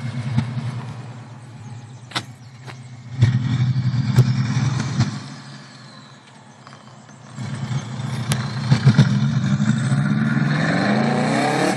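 Turbocharged Subaru Legacy flat-four running with no exhaust past the downpipe, revved several times. A short blip fades back, a louder rev is held for a couple of seconds and drops off about five seconds in, then a rev climbs higher toward the end, with a few sharp cracks in between.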